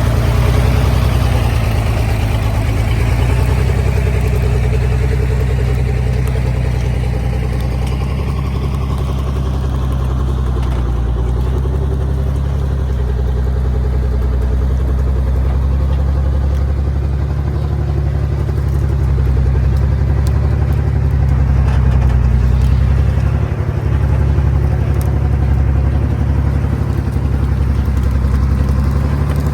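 Small truck's engine running steadily, with a low, even drone throughout.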